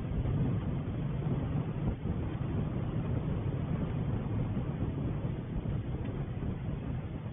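Wind buffeting the camera's microphone: a continuous low rumble that flickers in loudness, with no distinct events.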